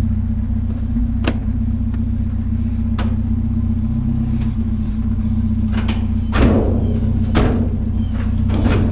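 Vehicle engine idling steadily, with several knocks and clunks as scrap is shifted in the load. The loudest clunk comes about six and a half seconds in.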